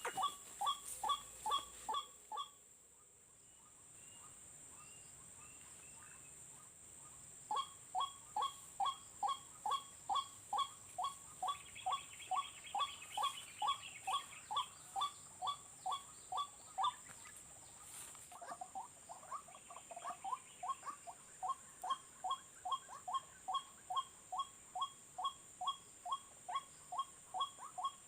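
White-breasted waterhen (ruak-ruak) calling: a long run of sharp, evenly repeated notes, about two or three a second. It breaks off for about five seconds near the start, then resumes.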